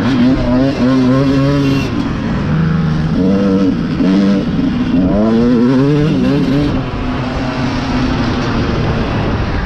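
Dirt bike engine revving up and falling back again and again as the throttle is worked and the bike shifts, several rising and falling sweeps in a row.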